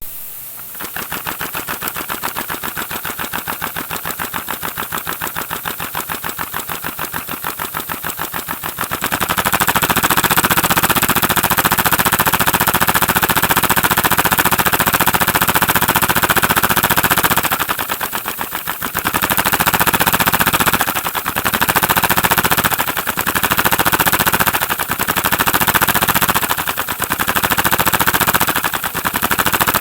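LEGO model engine with a new flywheel running fast, its moving parts making a rapid, even clattering rattle. About nine seconds in it gets louder, and later its level swells and dips every two seconds or so.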